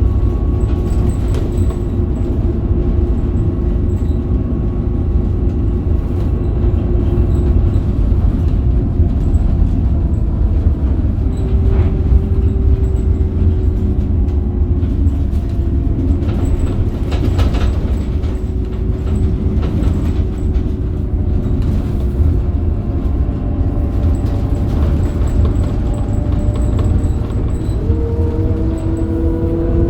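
Inside a Scania K270UB bus on the move: a steady heavy rumble from the road and the Scania DC9 five-cylinder diesel, with a droning engine and drivetrain tone through the ZF Ecomat automatic gearbox. Near the end the drone rises in pitch as the bus picks up speed.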